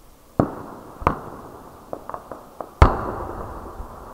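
Aerial firework shells bursting: three main booms, each with an echoing tail, the loudest about three seconds in, and a quick run of smaller pops between them.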